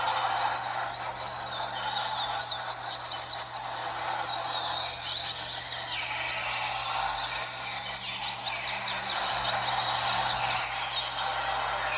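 Many double-collared seedeaters (coleiros) singing at once, their rapid, sweeping high notes overlapping in a dense chorus over a steady background noise.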